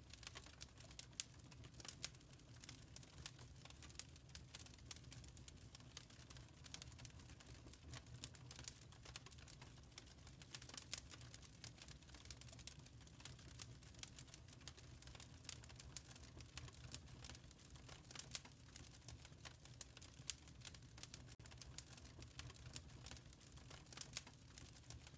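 Wood fire crackling faintly in a fireplace: irregular quick snaps and pops over a low, steady rumble.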